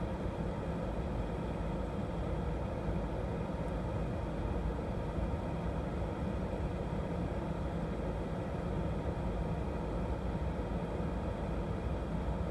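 Steady low rumble of an idling vehicle engine, heard through a dashcam, with no change in pitch or level.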